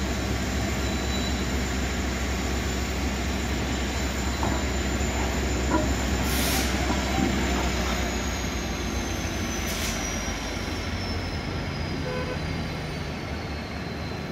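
Steady rumble of a railway coach moving slowly on the track during rerailing, with a thin high whine that slowly falls in pitch over the last several seconds.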